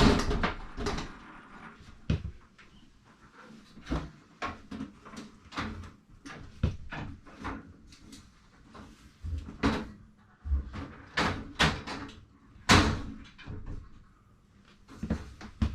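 Irregular knocks, taps and clunks of hand work on wooden cabinet framing, a sharper knock just after twelve seconds in.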